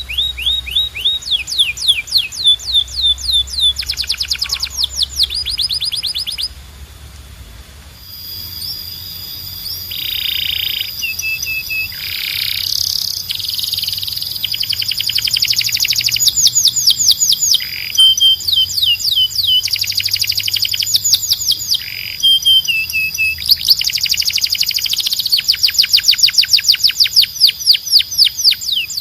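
Canary singing: fast runs of repeated sweeping notes and rolling trills, broken by a short pause about six seconds in.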